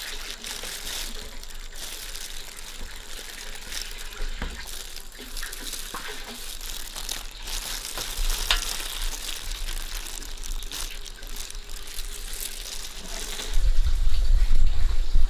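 Food sizzling in a pan, a steady hiss with scattered small clicks of stirring. Near the end a loud low rumble cuts in.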